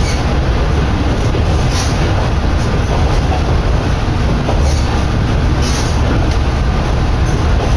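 Kominato Railway diesel railcar running along the line, heard from inside the car: a steady loud rumble with a few sharp clacks of the wheels over rail joints, and wind coming through the open window.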